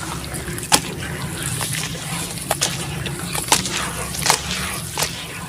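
Sand-cement chunks crumbling in water: a steady wet, gritty hiss with about six sharp snaps spread through it as pieces break off.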